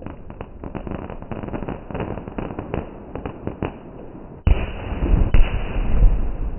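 Fireworks going off: a quick string of crackling pops for the first few seconds, then a sudden loud bang about four and a half seconds in, a second bang about a second later, and a low rumble after them.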